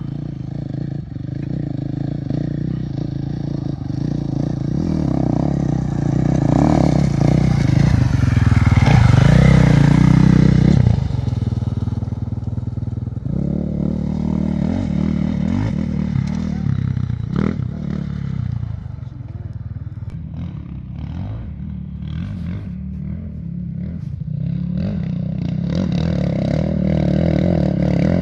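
A motor engine running, growing louder to a peak about a third of the way in, dropping off suddenly, then building up again near the end.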